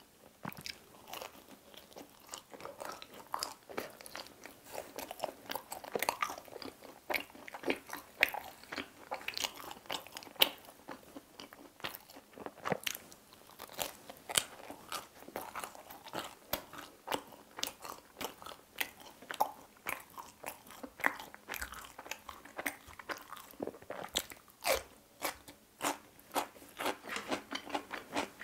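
Close-miked mouth sounds of someone chewing crunchy food: a continuous run of crisp crunches and wet chewing, several a second.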